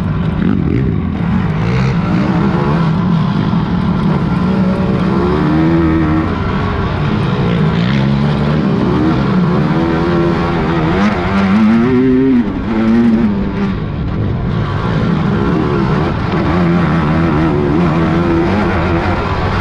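Several big-bore quad ATV engines racing, revving up and down as the machines pass, with the loudest rising rev about twelve seconds in.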